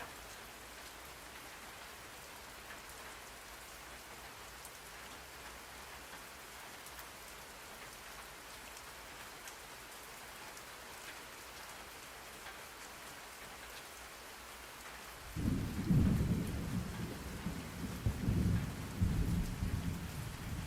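Steady rain hiss, then about three quarters of the way through a loud, low roll of thunder that swells several times and carries on rumbling under the rain.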